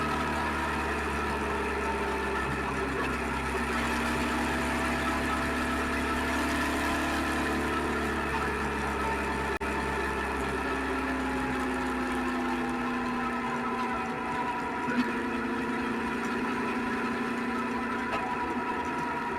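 Suzuki SV650X motorcycle's V-twin engine running, its pitch drifting slowly up and down as the revs change, recorded on an action camera. There is a single short click about 15 seconds in.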